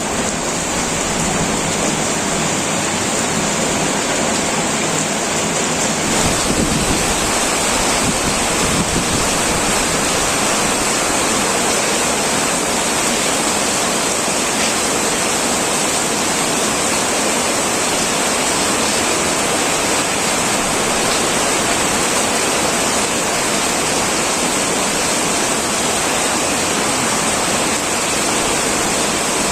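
Heavy rain pouring steadily onto a metal roof, a dense, even hiss with no single drops standing out; its tone shifts slightly about six seconds in.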